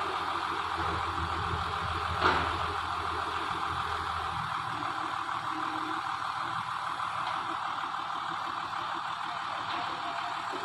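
A heavy vehicle's engine running steadily, with a single sharp knock about two seconds in.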